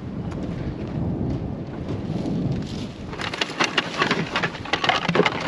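Wind rumbling on the microphone, then from about three seconds in a rapid run of sharp clicks and rattles, like objects in a trash pile being handled and moved.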